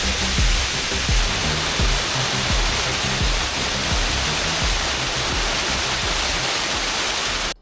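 Waterfall rushing steadily, with background music carrying a low bass line underneath. Both cut off abruptly at the very end.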